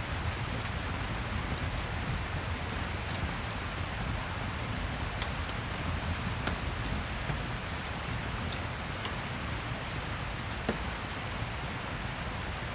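Steady rain mixed with a crackling fireplace: an even rushing hiss with scattered small pops and one sharper tick near the end.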